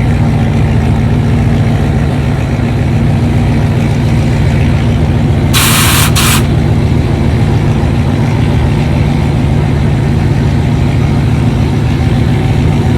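A vehicle engine runs steadily at a low, even pitch. About six seconds in there is a brief, sharp hiss in two quick parts.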